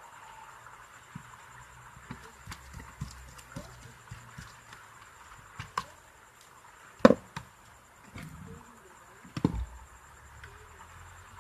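Scattered light clicks and knocks of parts of an electric clothes iron being handled and fitted back together during repair, with two louder knocks in the second half, over a faint steady background hiss.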